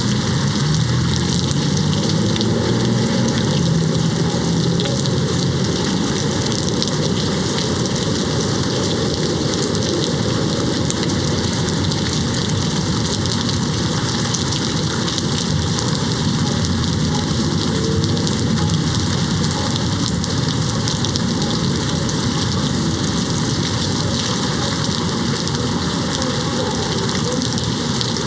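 Steady rain hitting a window pane, a dense even patter. A low rumble of distant thunder sits under it for the first five seconds or so, then fades away.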